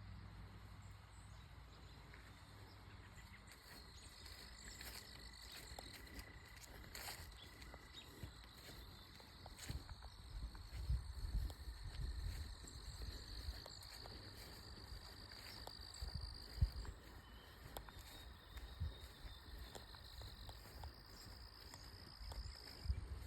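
Insects trilling in long, steady, high-pitched notes, with footsteps thudding and scuffing on the ground now and then.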